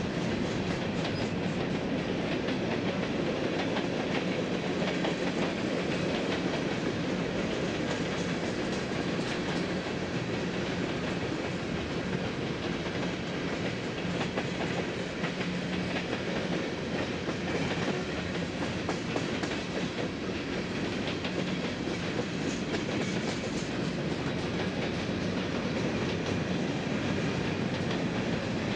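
Freight train cars rolling steadily past, with continuous wheel clatter on the rails and a steady low drone underneath.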